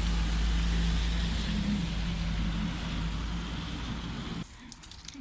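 Steady road and engine noise of a moving car: a deep rumble with a low hum and tyre hiss. About four seconds in it cuts away to a much quieter scene with a few faint clicks.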